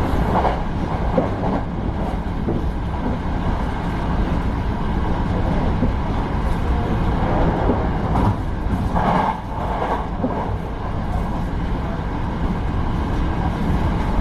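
Hankyu Kobe Line electric train running on the rails with a steady low rumble, and a brief higher-pitched patch about nine seconds in.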